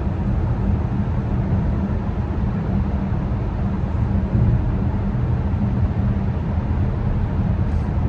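Steady road and engine noise heard from inside a car driving through a long tunnel, a constant low drone with no changes.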